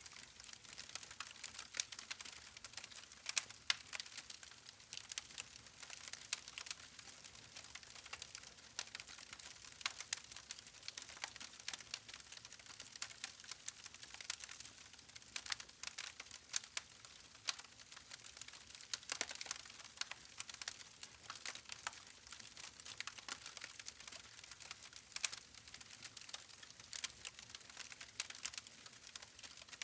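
Campfire crackling: wood burning with a steady stream of small irregular pops and snaps over a soft hiss.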